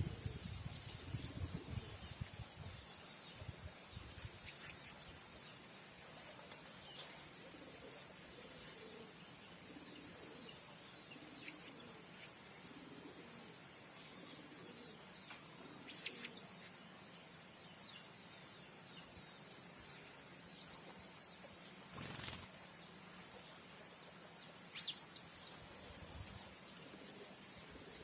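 Steady, high-pitched chirring of an insect chorus, with a few short, sharp sounds scattered through it.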